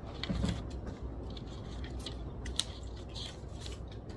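Library study-desk ambience: a low steady hum with scattered small clicks and taps, one sharper click about two and a half seconds in.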